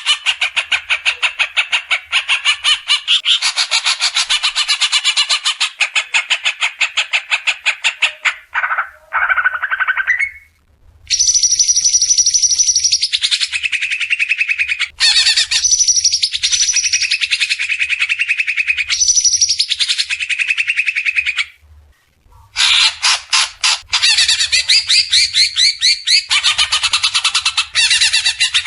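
Recorded songbird song: loud, fast rattling trills of rapidly repeated notes, broken by short pauses about ten and twenty-two seconds in, with held higher notes between them.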